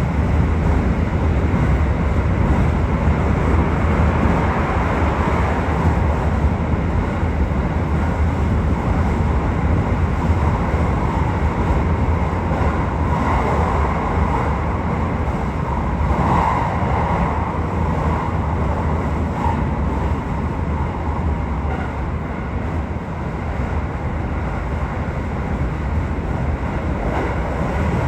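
Aichi Loop Railway 2000 series electric train running steadily between stations: a continuous rumble of wheels on rails and running gear.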